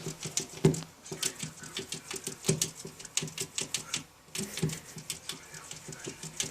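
A cat chattering at a bird: rapid, irregular clicking mixed with short, low chirping sounds, with a brief pause about four seconds in.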